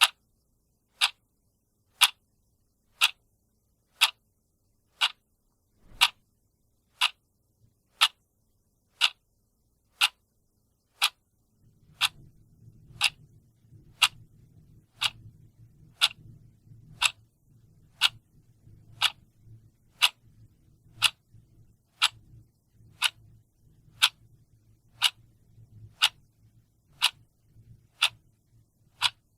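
A clock ticking steadily, one sharp tick a second. A faint low hum comes in underneath about twelve seconds in.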